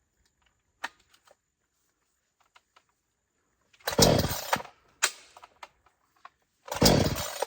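A cheap 20-inch gas chainsaw being pull-started: a few light clicks, then hard pulls of the recoil starter about four seconds in and again near the end, the engine beginning to fire after repeated failed attempts.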